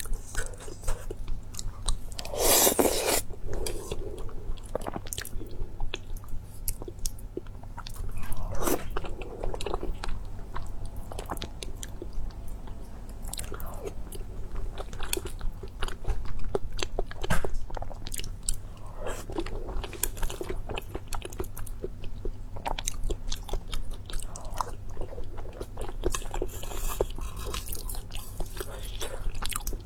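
Close-miked chewing and biting with crunching: a steady run of small mouth clicks, with louder crunching bites every several seconds.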